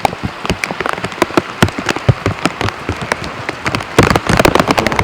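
Heavy rain with big drops pattering on the plastic bag wrapped over the camera, each drop a sharp tap close to the microphone. The tapping gets denser and louder about four seconds in.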